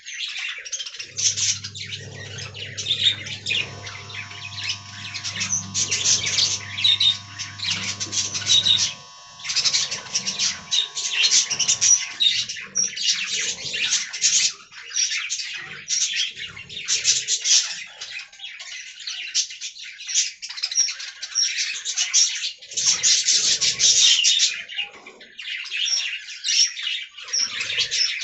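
Budgerigars chirping and chattering continuously in a dense, unbroken stream of high warbles. A steady low hum with a few faint steady tones underlies the first third and stops about a third of the way in.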